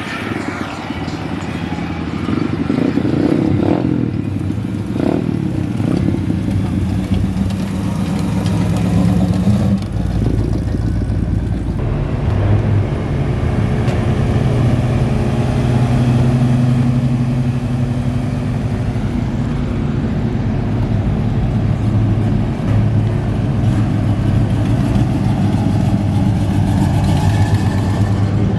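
Motor vehicle engine running, a steady drone whose pitch shifts a few times, with some revving.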